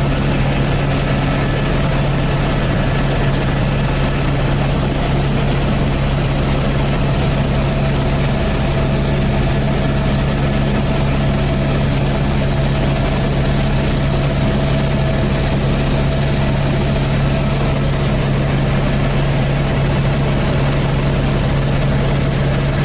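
Helicopter in flight heard from inside the cabin: a steady, unchanging drone of rotor and engine with a strong low hum and a few faint constant higher tones.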